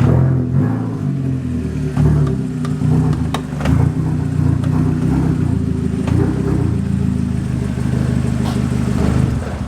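2001 Audi TT Quattro's 1.8-litre turbocharged four-cylinder engine idling, a steady low running sound that wavers in level, with a few sharp clicks.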